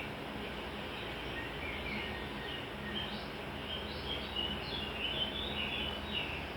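Small birds chirping in many short, quick calls, busiest in the second half, over a steady background hum.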